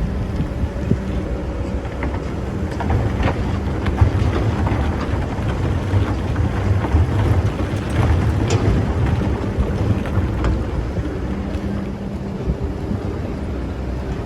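Excavator's diesel engine running steadily, rising somewhat in the middle as it works, with scattered clicks and knocks from the machine digging.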